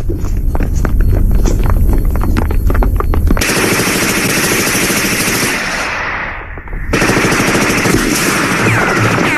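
Film soundtrack of machine-gun fire: rapid irregular shots over a heavy low rumble. About three and a half seconds in, the sound cuts abruptly to a dense continuous noise, which drops briefly near the end and then resumes.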